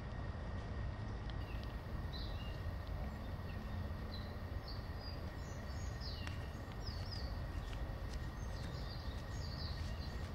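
Small birds chirping in short, scattered high notes over a steady low background rumble, the chirps starting about two seconds in.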